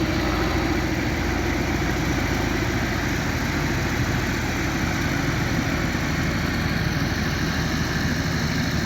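Belarus tractor's diesel engine running steadily, hauling a trolley loaded with sugarcane.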